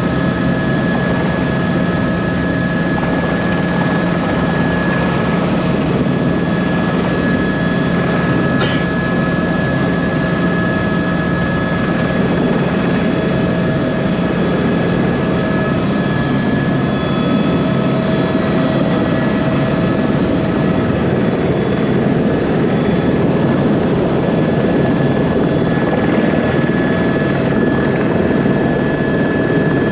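Tour helicopter's engine and rotor running, a steady loud drone with constant whining tones over it. A brief sharp chirp cuts through about nine seconds in.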